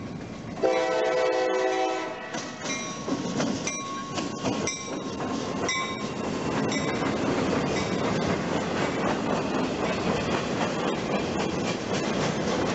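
Freight train diesel locomotive's horn sounds one short blast about half a second in. The locomotive then passes close, and the freight cars roll by with a steady rumble and clickety-clack of wheels on rail.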